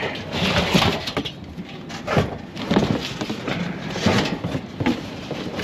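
Irregular knocks, bumps and scrapes of building work, like wood and tools being handled.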